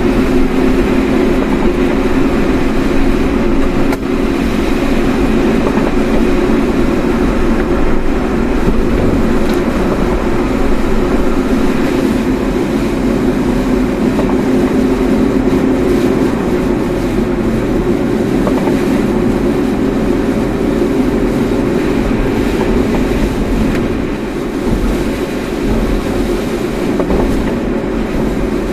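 Steady road noise of a moving car: tyres and engine giving an even rumble.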